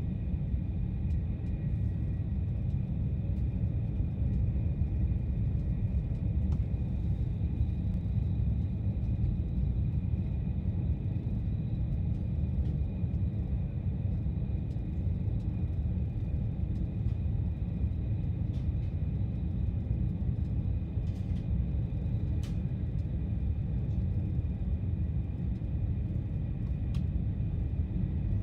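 Steady low rumble inside a high-speed EMU train carriage cruising at about 200 km/h, with a faint high steady whine and a few light ticks in the second half.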